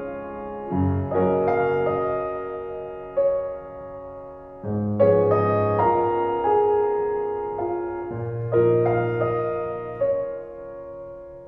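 Slow solo piano music, chords and notes struck every second or two and left to fade.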